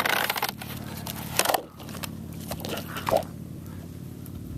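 A nautical chart being handled, crinkling and rustling in irregular short crackles.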